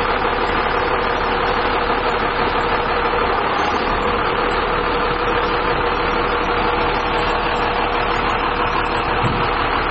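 Diesel engine of a Dongfeng 153 hook-lift truck running steadily, with a constant whine held over it.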